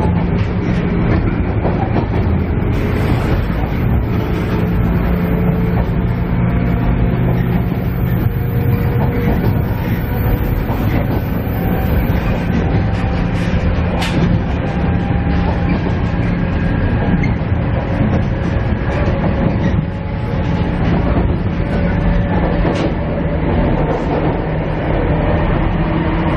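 A KiHa E130 diesel railcar heard from inside the car while under way. Its diesel engine drones steadily, its pitch shifting slowly, over continuous wheel-on-rail noise, with one sharp click about halfway through.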